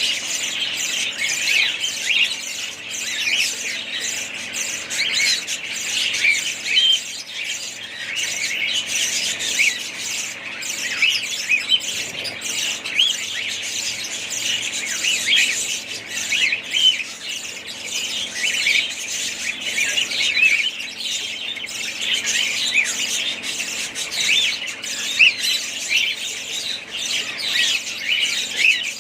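A flock of budgerigars chattering together: a dense, continuous stream of short overlapping chirps, warbles and squawks.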